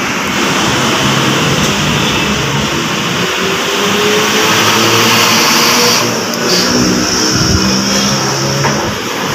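A motor vehicle's engine running and being revved, a loud steady noise whose pitch climbs and then shifts up and down.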